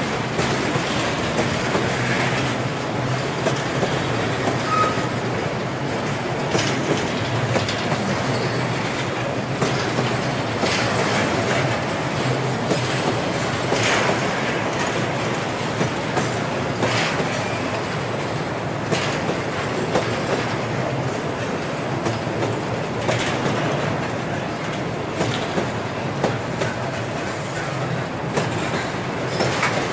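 Freight train of open-topped gondola wagons rolling past close by on a curve: a steady rumble of wheels on rail with irregular clacks over the rail joints, and now and then a short high squeal from the wheels.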